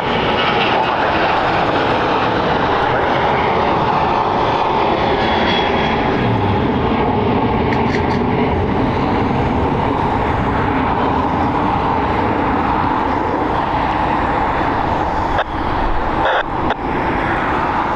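Jet airliner engines running loud and steady, a continuous rushing noise strongest in the middle of the range; near the end the sound briefly dips and breaks up a few times.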